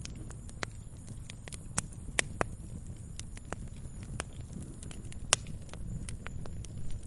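Wood fire crackling in a fireplace: irregular sharp pops and snaps over a low steady rumble, the loudest pop about five seconds in.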